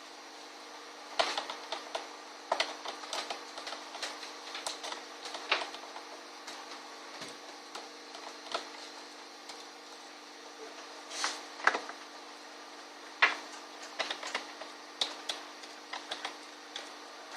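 Irregular sharp clicks and light knocks of a small screwdriver working screws out of a laptop's plastic bottom case, coming in clusters, over a faint steady hum.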